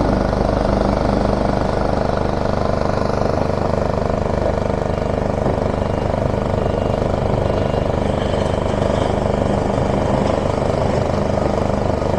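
Heavy diesel machinery running steadily with a continuous drone.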